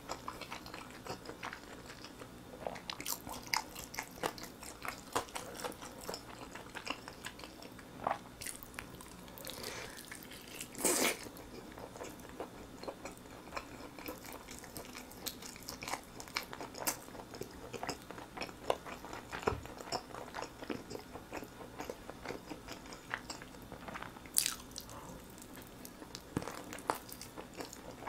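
Close-miked biting and chewing of a sauce-glazed roasted chicken drumstick, with many short wet mouth clicks and smacks. About eleven seconds in there is one louder, longer burst of noise.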